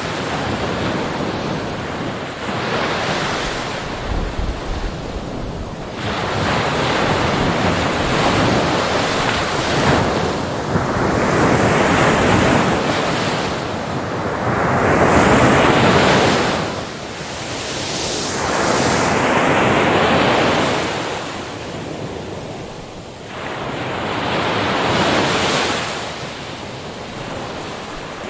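Ocean waves breaking on a beach, the surf swelling and falling back every few seconds, with wind on the microphone.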